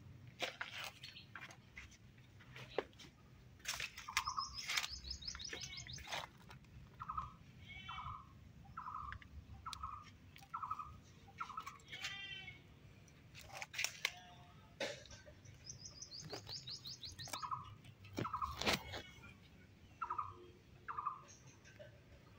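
Birds chirping and calling: a series of short, even chirps about one a second, with a couple of quick high-pitched trills. Several sharp clicks are also heard.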